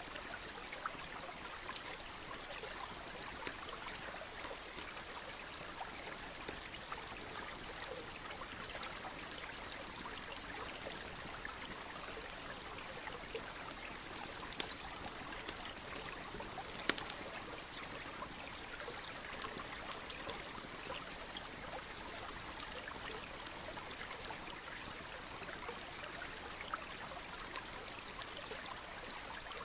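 A small stream running steadily, with a campfire crackling over it in scattered sharp pops, a few louder ones a little past the middle.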